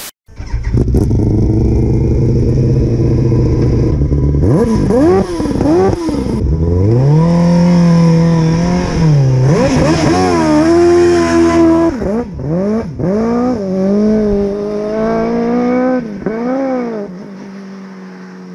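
Classic Mini fitted with a Yamaha R1 inline-four motorcycle engine: a deep, uneven rumble at first, then the engine revs hard, its pitch climbing and dropping again and again as it pulls away. It fades out near the end.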